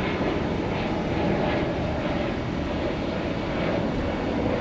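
Jet airliner engines running, a steady noise that holds level throughout.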